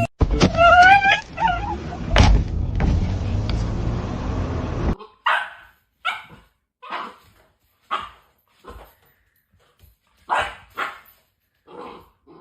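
A dog whining in wavering rising notes, then barking in about eight short barks spaced roughly a second apart.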